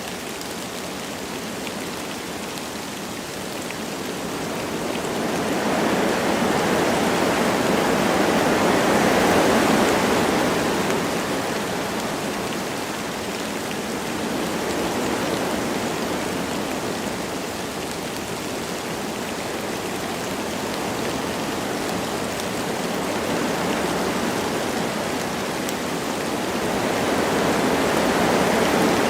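Wind blowing through forest trees in slow gusts that swell and die away over several seconds, with light rain falling.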